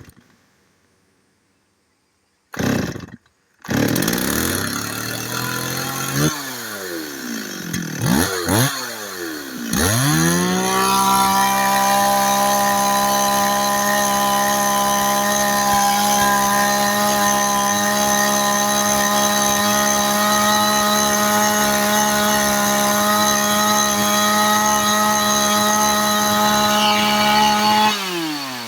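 STIHL 024 AV EQ two-stroke chainsaw engine. It catches about four seconds in, idles with a few throttle blips, then revs up near ten seconds and holds a steady high pitch for about eighteen seconds. The revs fall back off just before the end.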